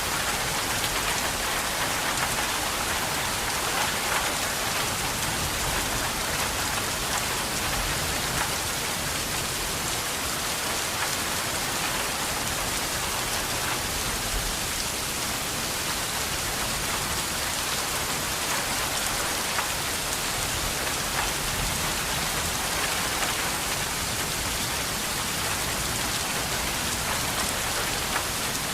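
Steady rain falling and pattering on surfaces, a dense even hiss made of many small drop impacts.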